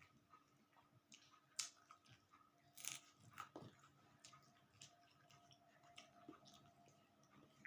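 Faint chewing and mouth sounds of someone eating dal, rice, omelette and roti: scattered small clicks and wet smacks, the loudest about one and a half and three seconds in.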